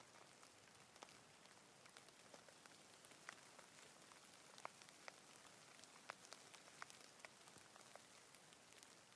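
Faint, steady rain, a soft even hiss with scattered individual drops ticking at irregular moments.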